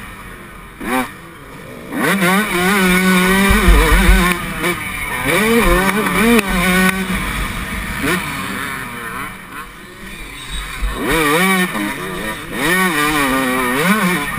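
Yamaha YZ125 two-stroke single revving hard under race throttle, its pitch repeatedly climbing and dropping as the rider opens and closes the throttle and shifts. The engine falls back and quietens for a second or two near the start and again around ten seconds in, before it is opened up again.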